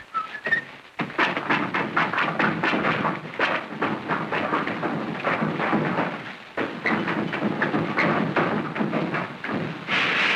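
A long, rapid run of thuds and crashes, several impacts a second for about nine seconds: an early-sound-film crash effect of someone tumbling and smashing offscreen.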